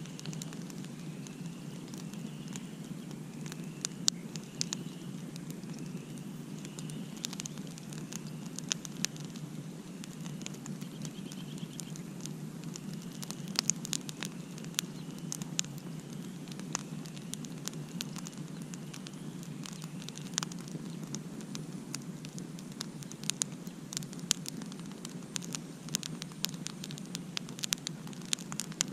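Campfire crackling: burning wood gives frequent, irregular sharp pops and cracks over a steady low rush. For the first dozen seconds a faint high chirp repeats about once a second.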